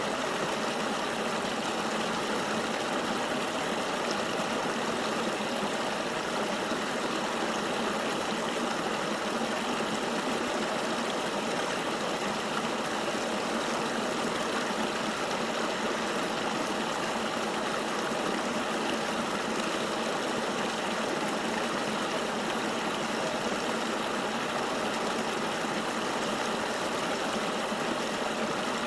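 Flowing river water: a steady, even rush with no changes.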